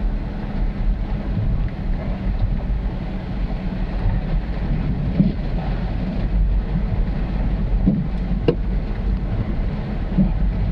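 Ford F-350 Super Duty pickup carrying a truck camper driving slowly on a sandy dirt road: a steady low engine and road rumble with a few small knocks and one sharp click about eight and a half seconds in.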